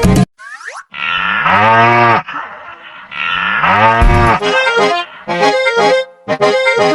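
A bull mooing twice, each moo a long call that rises then falls in pitch, after a quick falling glide. Accordion music starts up about four and a half seconds in.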